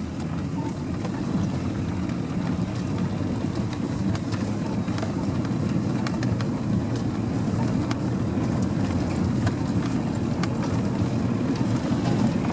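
A vehicle's engine running with a steady low drone, with scattered clicks and knocks over it.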